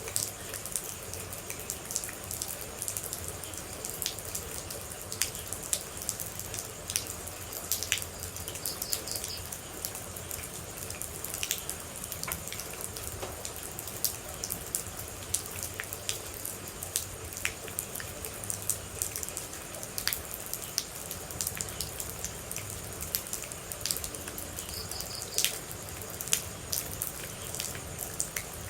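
Water drops dripping and pattering at an irregular rate over a steady hiss of rain.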